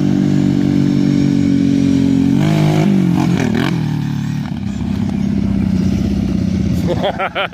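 ATV (quad) engine running hard at steady high revs. About two and a half seconds in, its pitch dips and swoops with throttle changes, then it settles into a rougher, lower note, with a brief warbling rev near the end.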